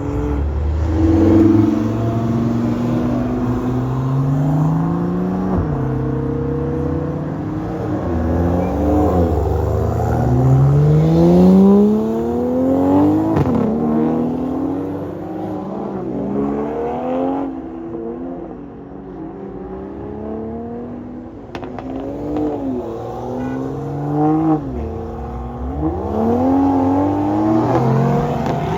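Several Toyota Supras accelerating away one after another, their engine notes overlapping, each climbing in pitch through a gear and dropping back at the shift. The sound eases off for a few seconds about two-thirds of the way through, then the next cars rev up.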